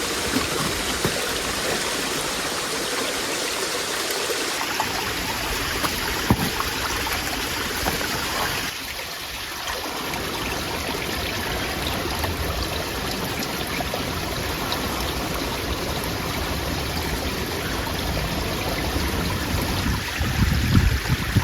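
A steady rushing noise, dipping briefly about nine seconds in.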